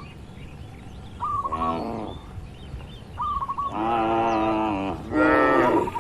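Cattle mooing: a short moo about one and a half seconds in, then two longer moos close together near the end, the last the loudest. Between the moos a bird calls in short runs of quick repeated notes.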